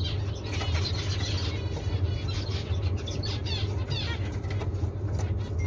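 Small cage birds chirping and twittering in many short, quick calls over a steady low hum.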